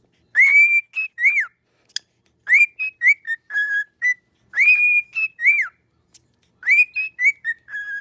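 A bird singing a loud whistled phrase four times, about every two seconds. Each phrase opens with a rising note that is held, followed by a few short slurred notes that fall away.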